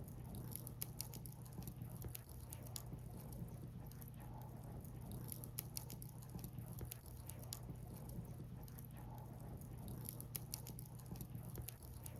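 Firewood burning in a bonfire, crackling with many small irregular pops and snaps over a steady low rumble.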